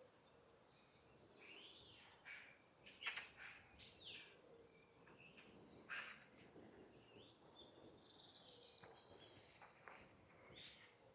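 Faint songbirds calling and singing: scattered chirps and short calls, then a long run of fast, high twittering notes through the second half.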